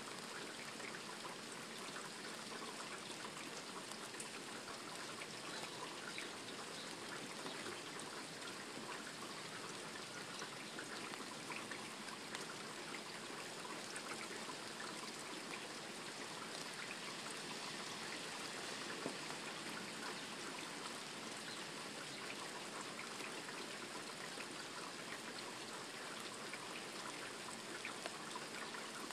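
Heavy rain falling steadily: a dense, even hiss peppered with countless small drop ticks.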